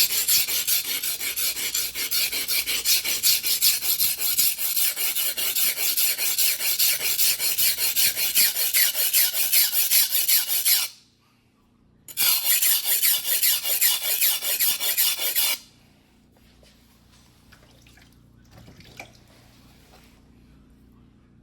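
A single-bevel fuguhiki sashimi knife blade of white steel, 270 mm, being ground by hand on a wet whetstone, with rapid back-and-forth scraping strokes about three a second. The strokes stop about eleven seconds in, start again a second later for about three seconds, then stop.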